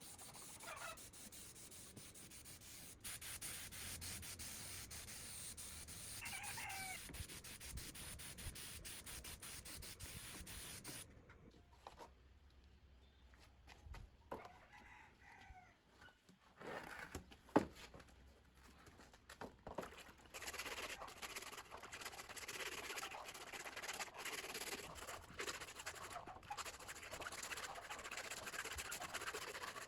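Chickens clucking now and then behind a steady rubbing noise, which drops away for several seconds in the middle, with a few sharp clicks, and comes back near the end.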